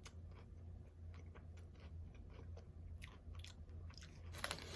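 Close-miked chewing of chips and dip: faint, crisp crunching clicks, then a louder crackling crunch near the end.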